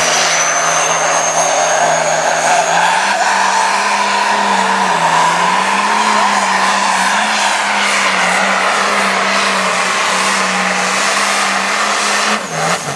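Turbocharged diesel pulling tractor running flat out under load, its engine pitch wavering as the tyres spin, with a thin turbo whistle rising over the first few seconds. The engine cuts back sharply near the end as the pull finishes with the tyres spinning.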